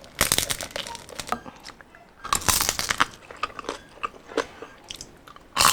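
Close-up crunching of crispy deep-fried skin being bitten and chewed: two bursts of loud crackly crunches about two seconds apart, then softer, scattered chewing crunches.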